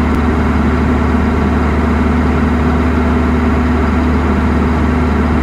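Heavy engine running at a steady speed, a constant low hum with no change in pitch.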